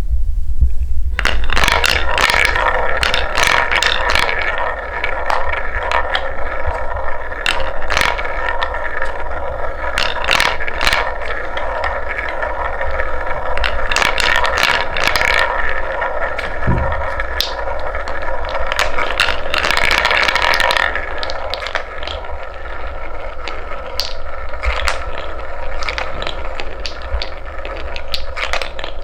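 Wooden balls rolling along a wooden marble run track: a continuous rolling rattle that starts about a second in, dotted with frequent sharp clacks as balls drop and knock against the wooden pieces.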